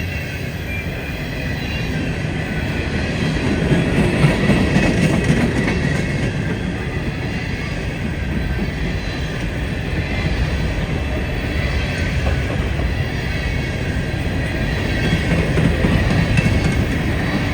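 Freight train cars rolling past on the rails: a steady rumble of wheels on track. It grows louder about four seconds in and again near the end.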